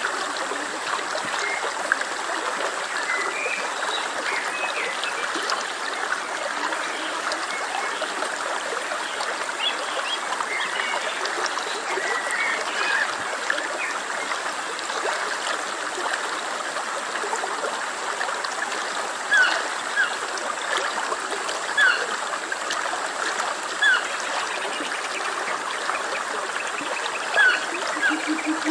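A stream flowing steadily over stones, a continuous trickling rush. Short high chirps sound over it, repeating about every two seconds in the second half.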